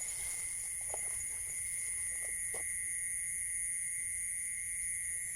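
Steady chorus of insects, several shrill tones held without a break, with a couple of faint clicks about one and two and a half seconds in.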